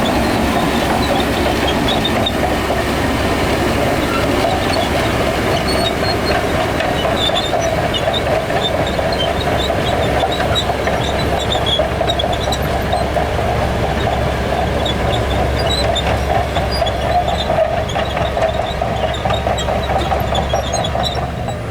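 Shantui crawler bulldozer at work: its diesel engine running steadily under load with the clatter and squeak of its steel tracks.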